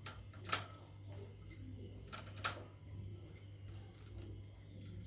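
Sharp metallic clicks of a wire cage door and its lock pin being worked, in two quick pairs about two seconds apart, over a steady low hum.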